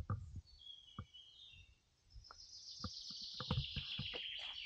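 Songbird singing: a few short high chirps, then a long trill that falls slowly in pitch over the last two seconds. Light knocks and rustles of footsteps and handling on dry leaf litter are scattered through it.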